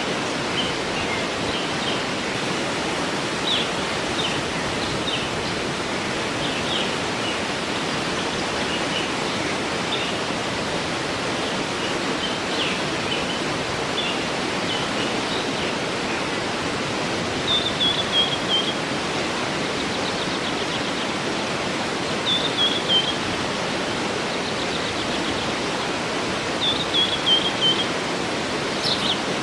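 Steady rushing of a waterfall, with birds chirping now and then above it. Three times in the second half a bird gives a short falling run of quick notes.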